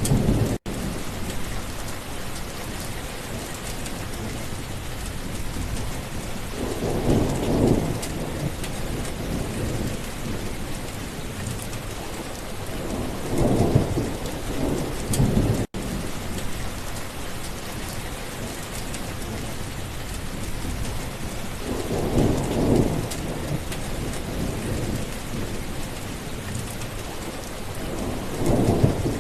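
Steady rain falling, with thunder rolling in low rumbles four times. The audio cuts out for an instant twice.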